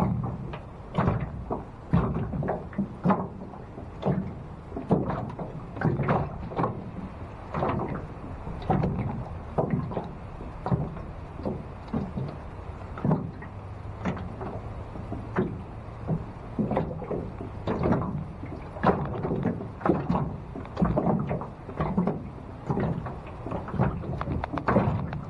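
Wind-driven choppy water slapping and splashing irregularly, several small slaps a second over a low wind rumble.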